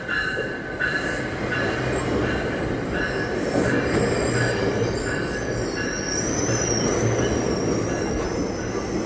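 Train rolling past with a steady rumble and wheels squealing in high, wavering tones from about halfway through. A short bell-like ding repeats about one and a half times a second, fading over the first half.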